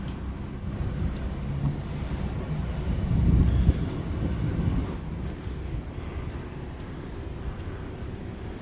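Street traffic rumble, with a vehicle passing loudest about three to four seconds in.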